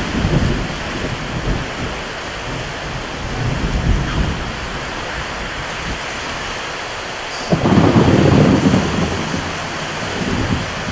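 Storm ambience of steady rain hiss with rolling thunder: a low rumble swells about four seconds in, then a louder thunderclap breaks in suddenly about two-thirds of the way through and rumbles on for about a second and a half.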